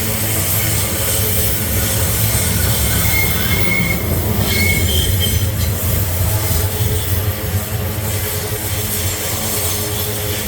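Freight train passing, a steady low rumble of the wagons, with short high wheel squeals about three to five seconds in.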